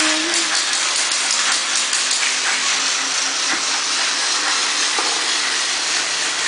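Thomas the Tank Engine toy train running, a steady hissing whir with a few faint clicks.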